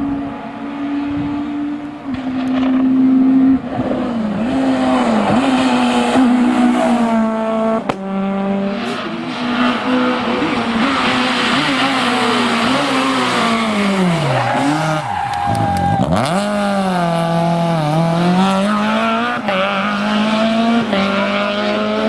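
Citroën Saxo Kit Car rally car's 1.6-litre four-cylinder engine revving hard, its pitch climbing and dropping through the gears, with a sharp sweep down in pitch about two-thirds of the way through as a car goes by.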